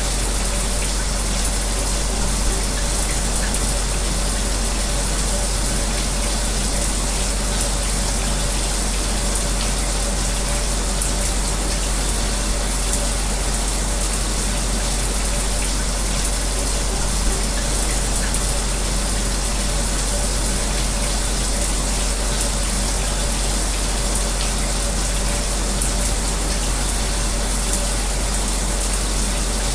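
A shower running with an electric fan running alongside it: a steady, unchanging spray of noise with a faint constant hum.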